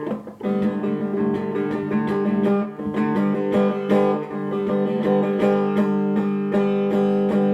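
Acoustic guitar strummed in a steady rhythm: an instrumental passage between sung lines of a song.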